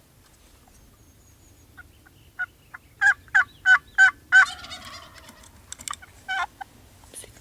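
A Merriam's wild turkey gobbler gobbling at close range: a run of loud notes that trails off, then a shorter burst near the end.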